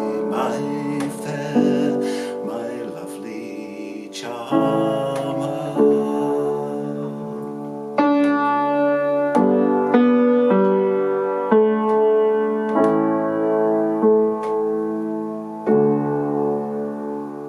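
Slightly out-of-tune piano playing a slow instrumental close to the song: chords struck every second or two and left to ring, growing softer near the end.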